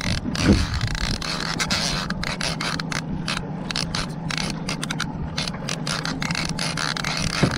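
Fishing reel being cranked in against a hooked fish, a steady mechanical scraping whir with no break.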